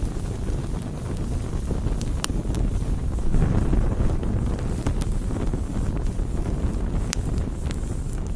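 Campfire burning with a steady low rumble, swelling a little partway through, and a few sharp crackles and pops from the burning wood.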